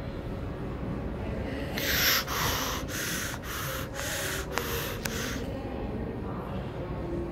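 Low steady rumble of a train in an underground station tunnel. Near the middle comes a run of about seven loud, rasping hisses, evenly spaced about half a second apart.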